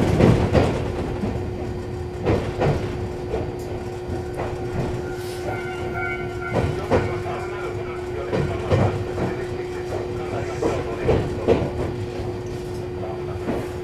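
Electric commuter train running on rail, heard from the driver's cab: a steady electrical hum under irregular clicks and knocks of the wheels over the track, as the train pulls alongside a station platform.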